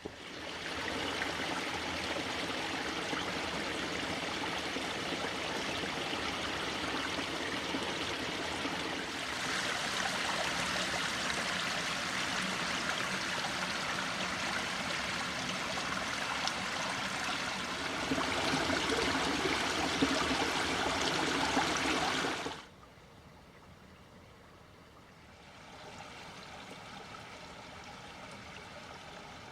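Steady rushing of a flowing stream, stepping louder about nine and eighteen seconds in and cutting off abruptly about twenty-two seconds in, leaving only a faint background hiss.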